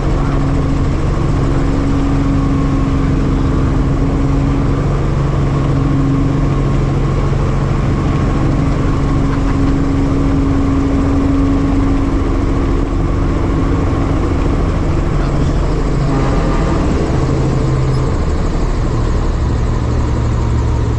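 Helicopter running steadily with a constant engine and rotor hum, its pitch shifting slightly near the end.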